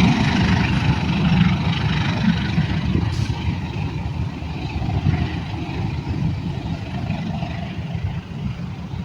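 A passing train's low rumble, steadily fading as it moves away.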